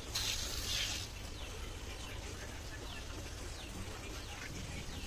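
Faint birds chirping over a low steady hum, after a brief hiss in the first second.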